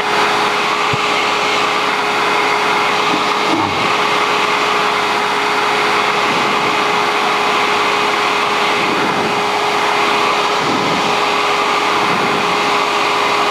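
Cessna 150's four-cylinder piston engine and propeller droning steadily in flight, heard from the cockpit with airflow noise and a steady hum.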